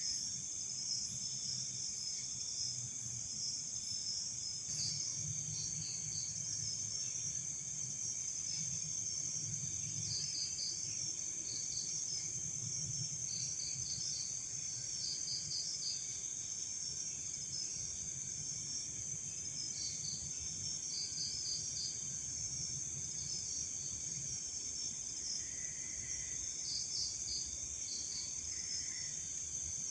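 Night chorus of crickets and other insects: a steady high-pitched trill, with short groups of quick chirps repeating every few seconds over it.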